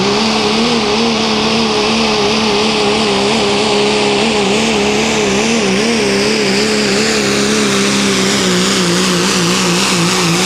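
Pro street diesel pickup truck's engine running near full throttle under load during a sled pull. It is loud and steady, with its pitch wavering up and down as the truck works down the track.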